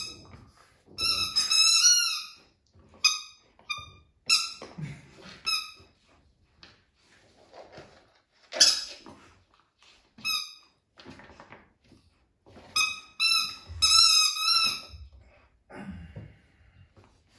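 Squeaky dog toy being squeezed in clusters of short, high squeaks, several quick squeaks at a time with pauses between.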